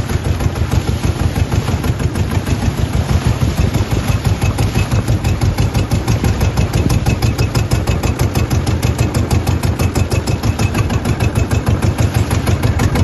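A small engine running steadily with a rapid, even chugging of several beats a second.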